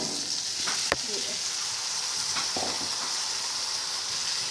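Food sizzling in a hot frying pan, a steady hiss, with a sharp click about a second in and a softer knock midway, like a spatula against the pan.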